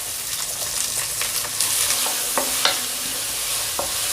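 Onions sizzling as they fry in hot oil, with a few sharp knocks of a utensil against the pan while they are stirred.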